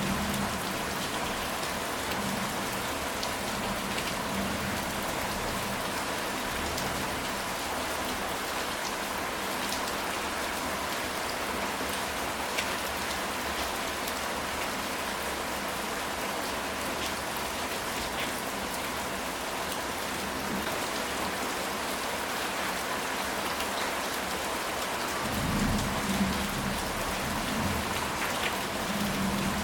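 Steady rain falling on a ceramic tile roof, with a low rumble of thunder near the end.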